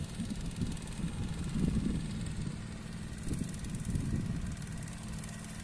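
Steady low engine drone with an uneven rumble, likely from a machine working the paddy field.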